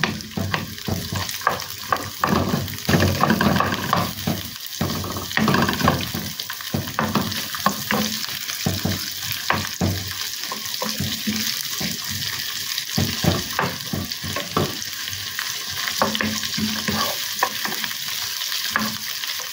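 Sliced onions and garlic sizzling in hot oil in a frying pan, stirred with a wooden spoon that scrapes and taps against the pan again and again.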